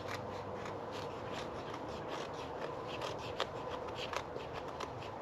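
Dry sticks being handled, with irregular light clicks and rustles that come thicker and sharper in the second half.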